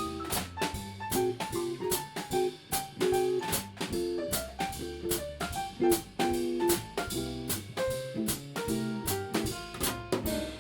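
Live band playing an instrumental tune: a drum kit keeps a steady beat of sharp hits under short repeated chords and a melody line.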